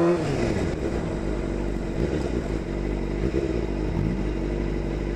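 2001 Suzuki GSX-R600's inline-four engine: a rising rev breaks off as the throttle closes right at the start, then it runs at steadier, lower revs under a constant low rumble of wind. A brief small rise in revs comes about four seconds in.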